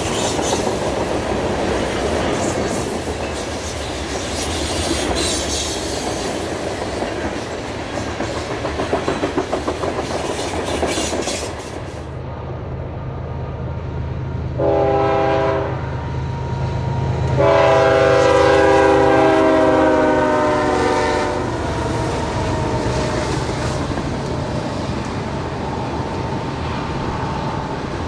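Freight cars rolling past at speed, with clickety-clack wheel clatter over the rail joints. Then a diesel freight locomotive approaches, running with a low engine rumble. It sounds its air horn with a short blast and then a long, louder one, and a string of tank cars rolls past.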